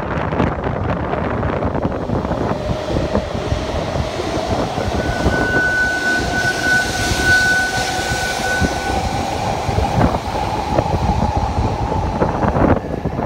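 Taiwan High Speed Rail 700T electric trainset pulling out of the station, its running noise carrying a slowly rising whine as it gathers speed, with a brief steady high tone midway. Strong wind buffets the microphone underneath.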